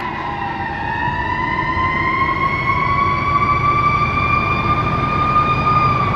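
Fire truck's Federal Q2B mechanical siren winding up, one steady tone slowly rising in pitch, over the low rumble of the truck's engine.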